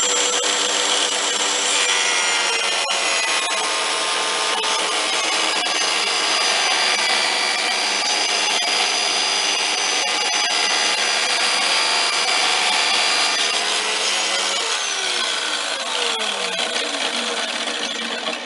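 Ozito electric tile saw, converted to a table saw with a 115 mm tungsten-tipped blade, running with a steady whine as it rips strip wood. Near the end the motor is switched off and its whine falls away as the blade spins down.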